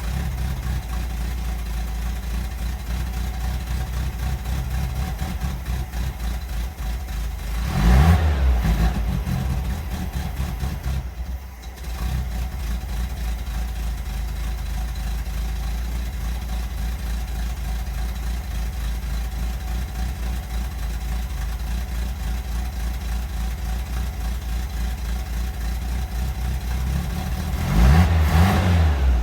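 Porsche 356 Vintage Speedster replica's engine idling steadily, blipped up in revs twice, about 8 seconds in and again near the end.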